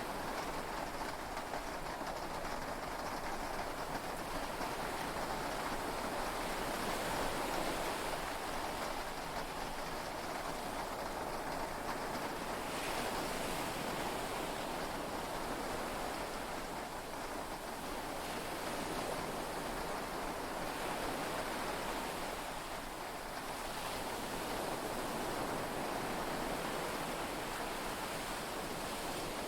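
Heavy rain and sea waves heard from inside a yacht's cabin: a steady wash of noise that slowly swells and eases every several seconds.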